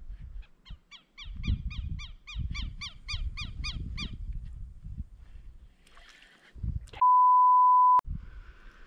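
A bird calls a quick run of repeated downward-slurred notes, about four or five a second for some three seconds, over low knocks and thumps. Near the end a loud, steady electronic beep sounds for one second and cuts off sharply.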